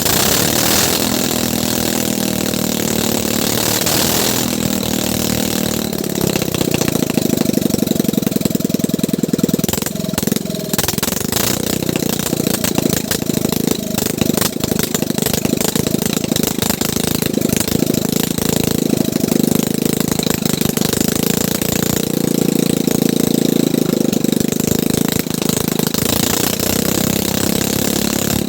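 Boat engine running steadily, with a fast, even firing rhythm.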